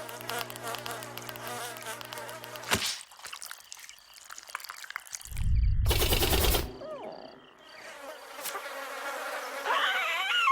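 Cartoon sound effects: a steady hum for the first few seconds, a loud noisy crash-like burst around the middle, then squeaky, warbling cartoon vocal sounds building near the end.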